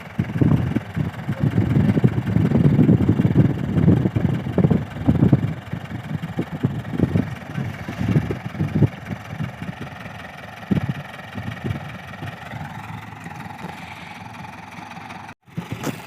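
Mahindra 575 tractor's diesel engine running: loud and uneven for the first half, then quieter and steadier, with a faint rising whine before a brief dropout near the end.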